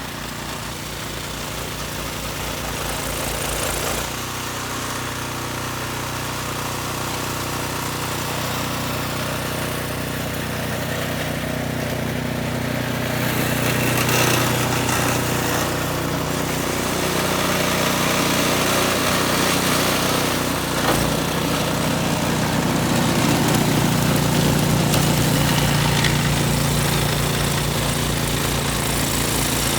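An engine running steadily, its note shifting a couple of times.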